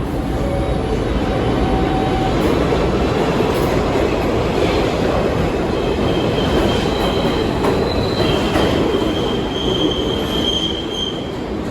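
New York City subway train running through the station with a loud steady rumble of wheels on rails. High-pitched wheel squeal comes in from about halfway through and grows toward the end.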